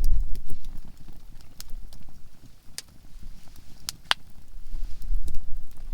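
Campfire of conifer firewood crackling, with sharp irregular pops, the loudest about four seconds in. A low rumble underneath fades in the middle and builds again near the end.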